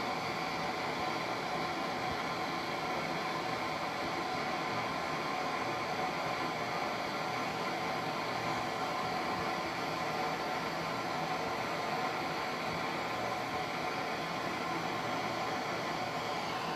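Brazing torch flame hissing steadily, with no break or change.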